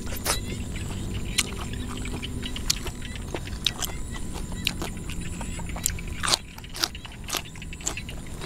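Close-up chewing of raw beef and fresh vegetables, with irregular wet clicks and smacks, over a steady high-pitched chorus from the surrounding field.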